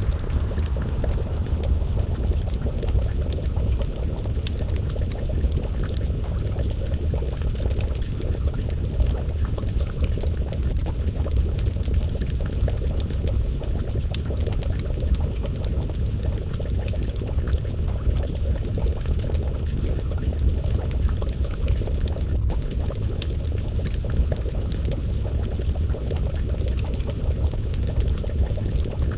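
Wood fire crackling with many small scattered pops, over a steady low rumble, together with a pot of stew bubbling as it simmers.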